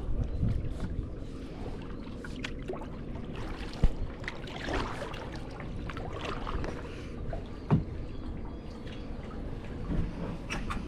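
Water trickling and lapping around a kayak, with wind rumbling on the microphone. Two sharp knocks, about four seconds and eight seconds in.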